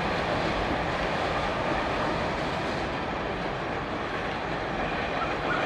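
Freight train's wagons rolling along the track, a steady rumble and rattle of wheels on rails.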